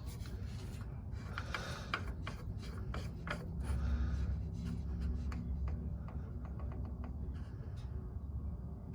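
Rubbing and scraping with many scattered small clicks and taps: parts and hand tools being handled during work on a diesel truck's fuel filter, with a low rumble coming in about three and a half seconds in.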